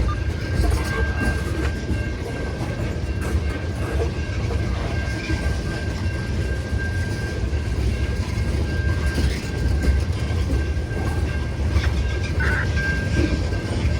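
CN freight train's cars rolling past, a steady heavy rumble of wheels on the rails, with a thin steady high whine above it.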